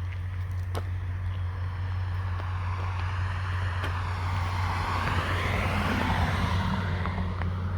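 A road vehicle going by: its tyre and engine noise swells to a peak about five to six seconds in and then fades, over a steady low hum.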